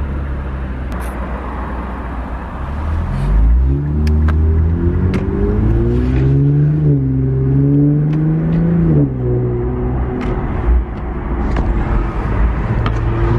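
Twin-turbo Infiniti engine heard from inside the cabin, pulling under acceleration. Its note climbs steadily from about three and a half seconds in, then falls sharply about nine seconds in as the throttle is lifted, and settles to a lower, steady running note, with scattered light clicks throughout.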